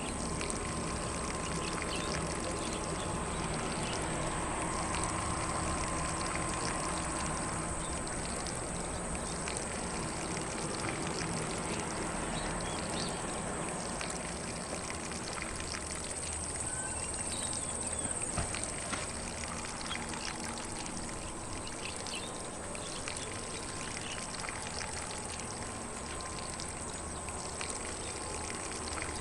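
Lawn sprinkler spraying water steadily across grass, an even hiss and patter, with occasional faint bird chirps.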